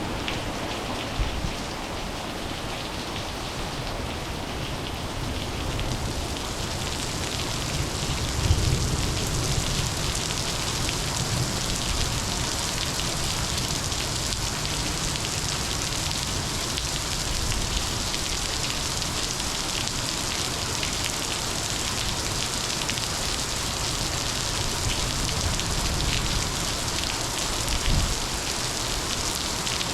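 Heavy monsoon rain falling steadily, a dense hiss that grows stronger after about six seconds, with a few low rumbles about eight seconds in and again near the end.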